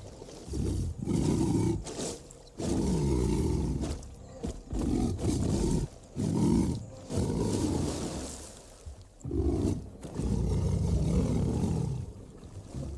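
Male lion growling and roaring in a string of loud, low bursts, some short and some a second or two long, with brief pauses between them.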